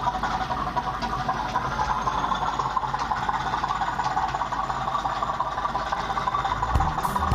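OO gauge model train running along the layout's track: a steady rattling run of wheels and motor. Low knocking sounds join in near the end.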